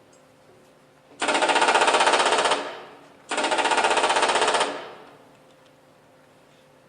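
Pneumatic rivet gun hammering in two bursts of rapid blows, each about a second and a half long and ending with a short echo, as a stage sound effect of riveting.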